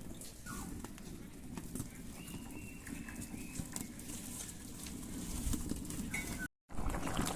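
A few short, faint bird calls over a steady low background noise, with a brief drop to silence at an edit near the end.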